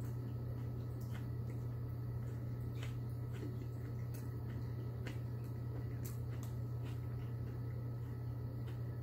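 Faint crunchy clicks of chewing a sandwich filled with potato crisps, irregular, about once or twice a second, over a steady low hum.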